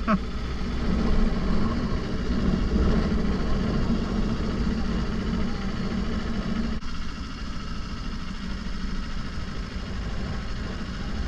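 Kawasaki Ninja 500's parallel-twin engine running at low speed with a steady, low rumble. About seven seconds in its note drops to a quieter, lower sound.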